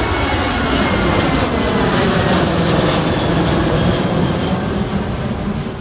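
Southwest Boeing 737 jet airliner passing on departure, its engines running at takeoff power. The roar is loud and steady, with a whine that falls in pitch as it goes by, then fades near the end.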